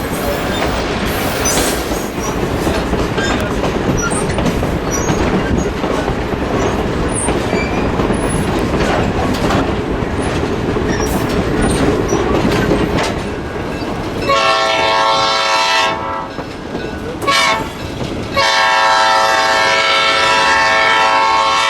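Train running along the rails with a steady rumble, then the locomotive horn sounds: a blast of about a second and a half about two-thirds of the way in, a brief toot, and a longer blast near the end.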